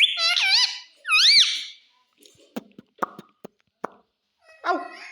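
Pet parrot calling: high, warbling whistles that waver up and down in pitch for about two seconds, a few short clicks, then a lower, voice-like call near the end.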